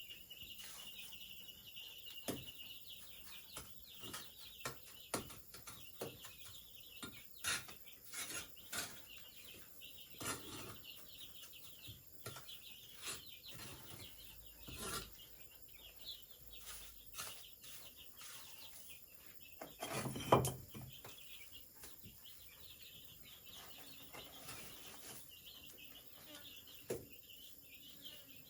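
Irregular knocks and scraping of hand work on bamboo, with the loudest knock about twenty seconds in. Birds chirp and insects buzz steadily behind it.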